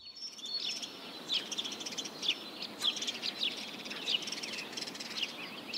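Small birds chirping in short, high calls repeated about every half second, over a faint steady outdoor hiss.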